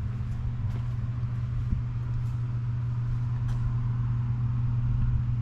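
Ford 390 cubic-inch FE V8 in a 1963½ Galaxie 500 idling steadily with an even low hum, running without exhaust leaks.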